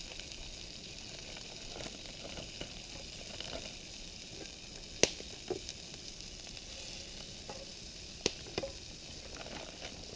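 Pierogies sizzling in a frying pan, a steady hiss broken by a few sharp clicks about halfway through and again near the end.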